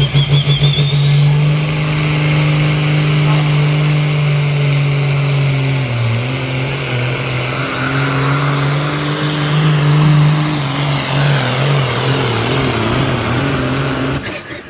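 Pulling tractor's turbocharged diesel engine at full throttle through a pull, with a rising turbo whistle in the first couple of seconds. The engine note holds high and dips and wavers as the load changes, then cuts off sharply near the end as the run ends.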